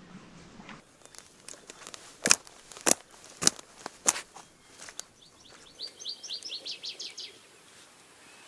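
Several sharp knocks, about one every half second, followed by a songbird singing a quick trill of short, falling high notes for about two seconds.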